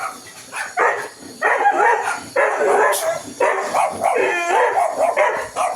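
Dog vocalising back in a string of about six short calls that bend up and down in pitch, between a whine and a bark.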